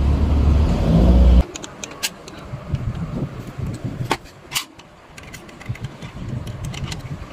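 An air compressor's motor running with a low steady hum, cutting off abruptly about a second and a half in. Then scattered sharp metallic clicks and knocks as the nail gun is handled.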